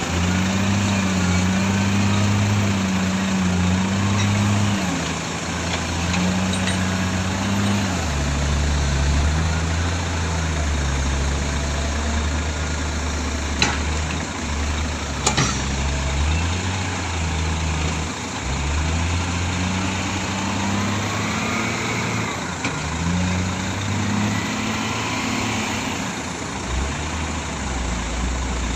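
Heavy diesel engine running during the loading of a logging truck, its revs rising and falling in steps. Two sharp knocks are heard a little past the middle.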